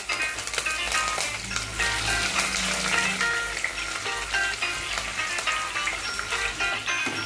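Hot oil sizzling and spattering in a nonstick kadai as curry leaves, green chillies and sliced onion fry in it, with background music playing over it.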